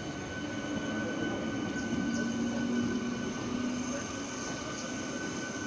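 MMTS electric suburban train: a steady hum with a constant high whine and a few faint ticks.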